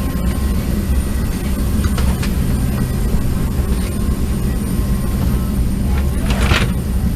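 Steady drone of an Avro RJ85's four turbofan engines heard inside the cabin: a low hum with fixed tones over an even hiss, holding level. A short hiss sounds about six and a half seconds in.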